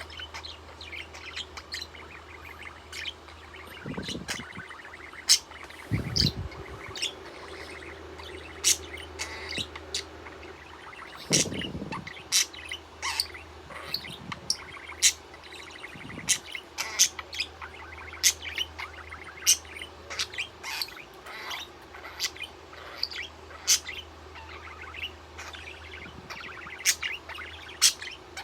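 Pet budgerigar chirping rapidly and repeatedly in short sharp notes, with a few dull thumps in the first half.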